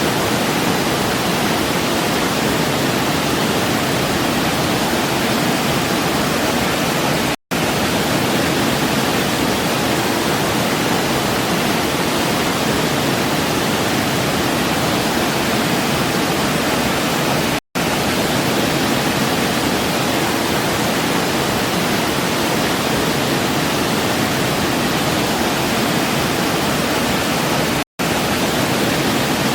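Waterfall rushing in a steady, even roar of water. The sound drops out for an instant three times, about ten seconds apart.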